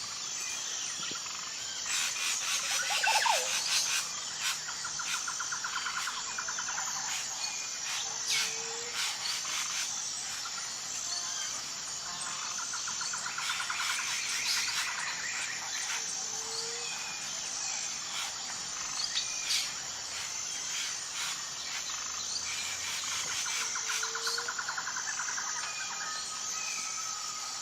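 Wild nature chorus: a steady high insect buzz with a pulsing pattern, birds chirping and trilling on and off, and a short low croaking call repeating every eight seconds or so.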